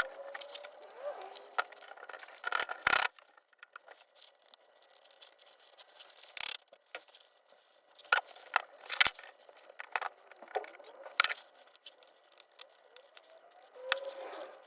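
Metal gearbox parts of a Honda CR125 two-stroke engine clicking and knocking as the gear shafts are handled and set into the crankcase: a string of sharp, irregular clinks, the loudest about three seconds in.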